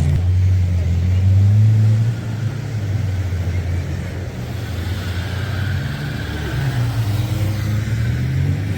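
Off-road 4x4 vehicle engine running at a low, steady note, louder for the first two seconds and then easing off.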